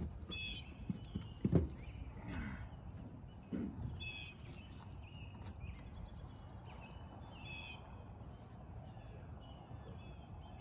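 A bird calls repeatedly, short calls coming every second or two over a low background rumble, with a single sharp knock about one and a half seconds in.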